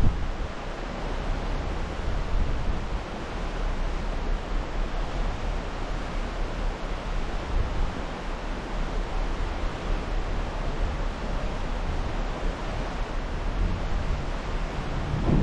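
Steady rushing of wind and water as a cruise ship sails on, strongest at the low end and without any sudden sounds.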